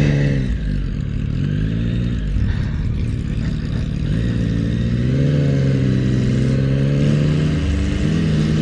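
Motorcycle engine running under way, its pitch rising and easing with the throttle about five seconds in and again near the end, over a steady rush of noise.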